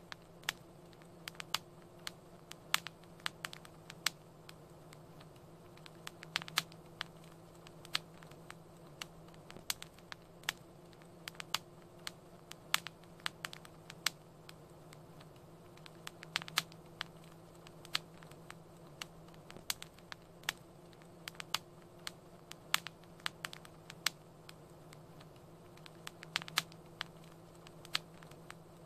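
Wood fire crackling in a fireplace: irregular sharp pops and snaps, several a second in places, over a low steady rumble of the flames.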